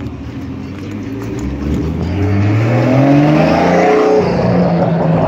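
A car engine revving as the car accelerates away, its pitch rising steadily for a couple of seconds and growing louder, then holding high toward the end.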